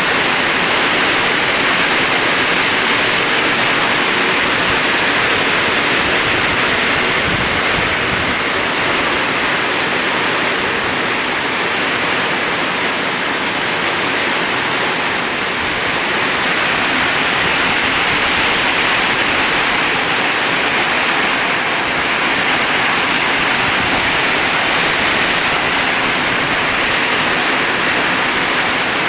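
Heavy rain falling in strong wind: a dense, steady hiss that swells and eases slightly.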